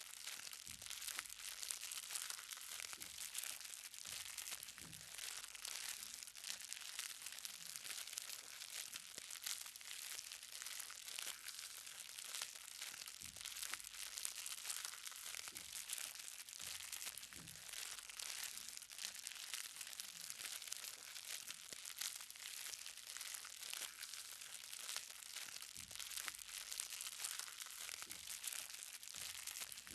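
Light rain: many small raindrops pattering steadily on the ground in a dense crackle, with a lower, single drop knocking every second or two.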